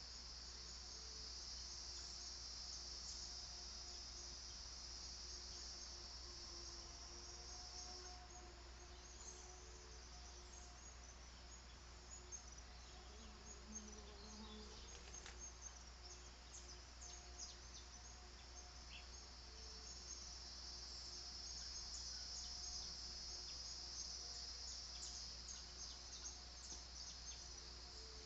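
Insects trilling in a steady high-pitched chorus that fades about eight seconds in and swells back near the end. Faint short bird chirps are scattered through the middle, over a low steady hum.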